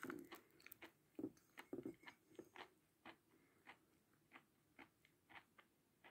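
Faint close-miked chewing of a mouthful of chalk: small, irregular crunches and clicks, about two a second, growing fainter in the second half.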